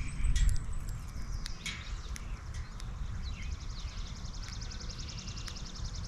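Wild songbirds calling at a backyard feeder: scattered short high chirps, then a long, fast, high trill from about two seconds in, over a low rumble.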